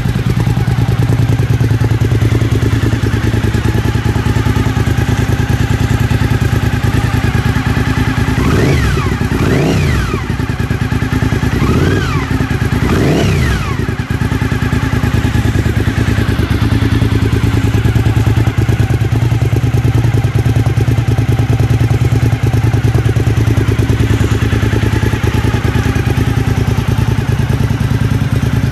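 Suzuki SV1000S 90-degree V-twin running through black Pipe Werx exhaust with the baffles removed, idling loudly. It is revved four times, in two quick pairs about nine and twelve seconds in, each rev rising and dropping back to idle.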